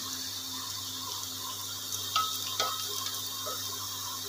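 Chopped onions sizzling in hot oil in a pot, stirred with a wooden spatula, with a couple of short knocks of the spatula a little after halfway.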